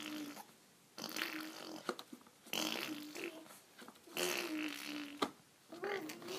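A four-month-old baby making funny vocal sounds: about five breathy, croaky noises in a row, each under a second long with short pauses between.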